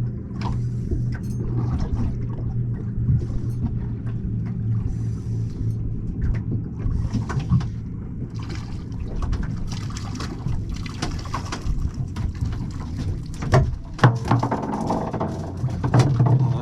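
Small boat's engine running steadily at idle, with water sloshing and light clicks over it; a few sharp knocks about three-quarters of the way through.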